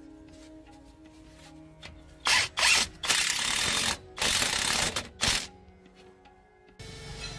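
A power tool run in five short bursts, the longest about a second, over quiet background music.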